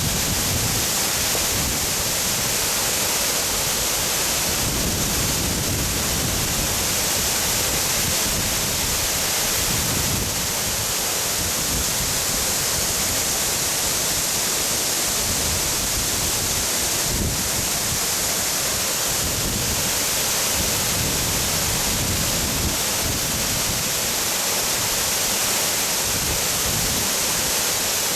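Steady rushing of a waterfall: a loud, even hiss with an uneven low rumble beneath it.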